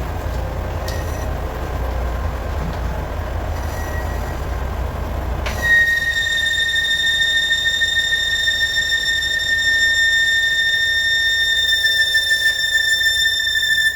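Metal lathe turning steel with a low, even rumble; about five and a half seconds in, a steady high-pitched squeal with ringing overtones sets in and holds, as the cutting tool squeals against the workpiece.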